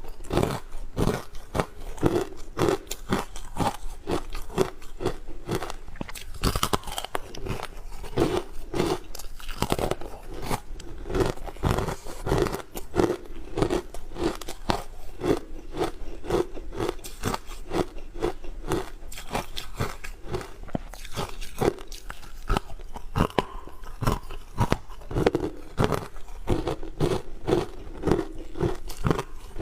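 Hard frozen ice with matcha being bitten and chewed close to the microphone: a dense, unbroken run of sharp cracks and crunches.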